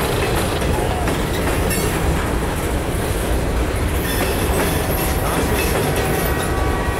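Freight cars of a mixed freight train rolling past, their wheels clicking steadily over the rail joints. Empty centerbeam flatcars and covered hoppers are going by.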